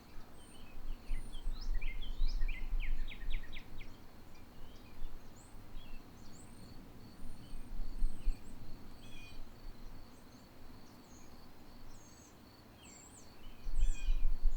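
Small birds chirping and twittering in short calls over a faint, steady high drone, with bouts of low rumble, strongest in the first few seconds and again near the end.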